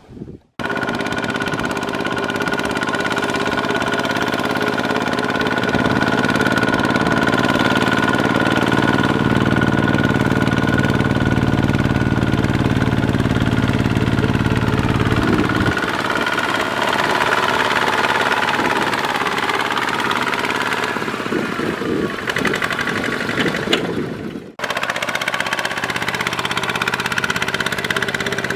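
Kubota ZT140 tractor engine running steadily with a knocking, chugging note. It grows heavier and lower-pitched for several seconds from about six seconds in. The sound cuts out abruptly twice, near the start and near the end.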